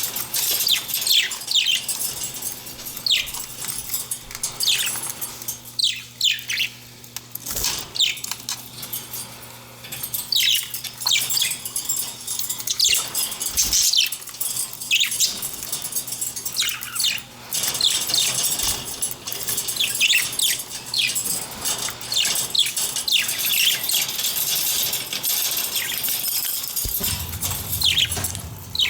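Budgerigars chirping and chattering, with many short, high calls sweeping up and down in quick succession.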